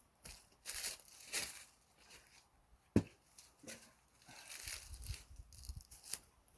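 Rustling, crinkling handling noises in short swishes, with one sharp knock about three seconds in.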